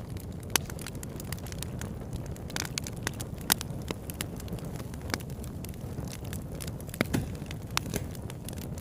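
Campfire burning with a steady low rush and irregular sharp crackles and pops. A few louder pops come about halfway through and again near the end.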